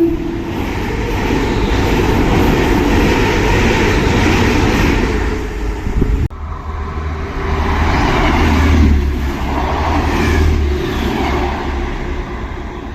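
A train passing through the station at speed: a loud, steady rush of wheels and air over a deep rumble, right after its horn. About six seconds in the sound breaks off sharply and picks up again with a heavier low rumble.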